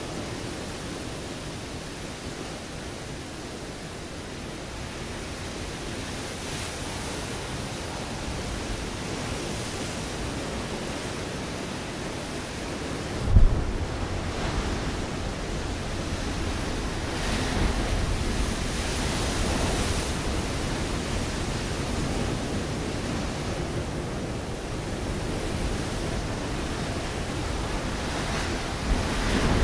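Ocean waves breaking on a rocky shore, a steady rush of surf that swells again a few seconds after the middle. About halfway through comes a sudden low thump.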